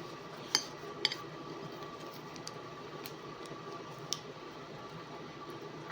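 A few short, sharp clinks of tableware during a meal: two close together near the start and one about four seconds in, over a steady background hum.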